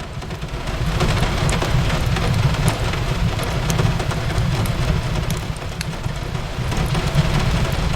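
Steady rain falling on a window, with a low rumble underneath and scattered sharp crackles from a fireplace.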